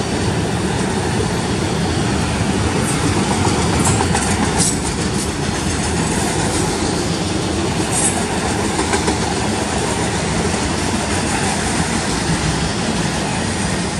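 Freight train's autorack cars rolling past close by: a loud, steady rumble of steel wheels on rail with clickety-clack from the trucks, and a few brief high squeals around four and eight seconds in.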